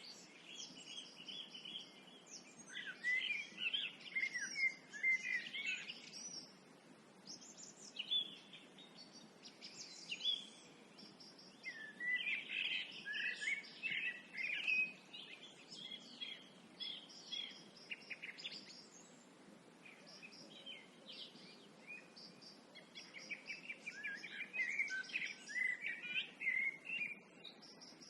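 Several songbirds singing at dusk, bouts of quick warbling and chirping phrases that come and go every few seconds over a faint steady background hum.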